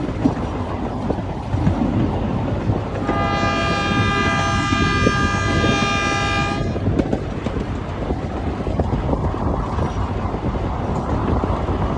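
Miniature park train running on its track, a steady rumble and rattle from the open cars. About three seconds in, the locomotive sounds one steady horn blast lasting about three and a half seconds.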